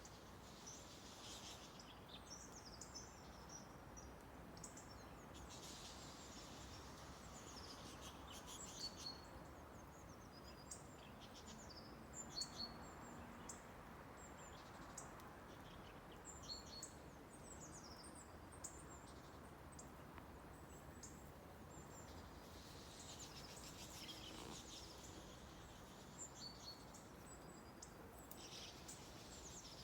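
Small songbirds chirping and singing in quick, high, repeated notes over a faint steady background hiss.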